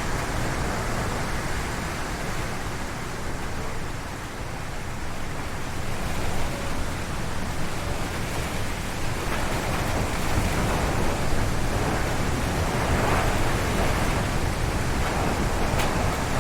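Strong wind gusting through a forest, rushing in the trees with a heavy low rumble on the microphone. It eases a few seconds in, then builds again into stronger gusts.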